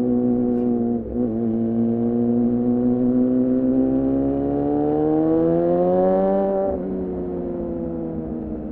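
2014 Yamaha R6's inline-four through an R9 titanium muffler and Leovince header, under way: a brief dip in the engine note about a second in, then the revs climb steadily for several seconds. Near the end the note drops suddenly as the throttle closes, and the revs fall slowly.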